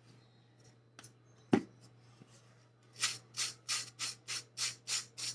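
A knife scraping butter across lightly toasted bread in quick, even strokes, about three a second, starting about three seconds in. A single sharp knock comes about a second and a half in.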